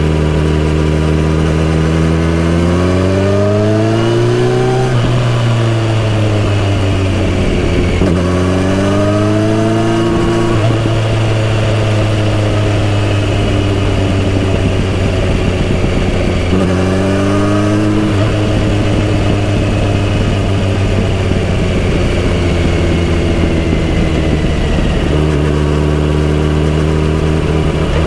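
Kawasaki Z900RS inline-four engine and exhaust under way. The revs climb and fall several times as the bike is ridden through the gears, with a long steady stretch in the middle and a drop to a lower steady note near the end.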